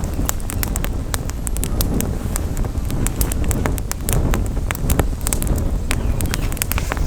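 Wood campfire crackling, with rapid, irregular sharp pops and snaps several times a second over a steady low rumble of wind on the microphone.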